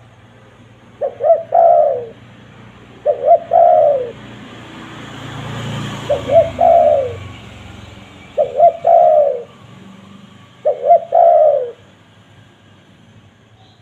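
Spotted dove (tekukur) cooing five times at an even pace. Each call is a couple of short notes and then a longer, drawn-out note falling in pitch. In the middle, a rush of background noise swells and fades.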